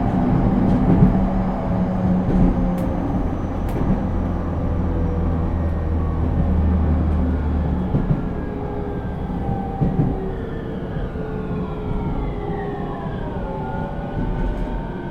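JR East E231 series electric train running, its Hitachi IGBT inverter and traction motors whining in several tones that slowly fall in pitch as the train slows, over steady wheel-and-rail rumble. The inverter tones shift pattern near the end, and a few sharp rail-joint clicks come in the first few seconds.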